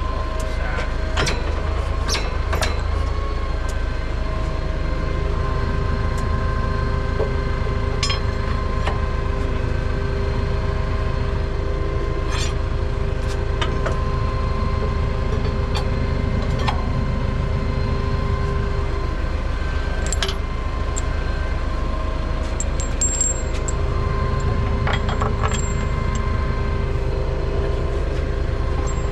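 Diesel engine of the fork-equipped machine holding the wheel running steadily, with a whine that drops out about nineteen seconds in and comes back a few seconds later. Sharp metal clinks and clanks come every few seconds as the wheel is worked onto the hub.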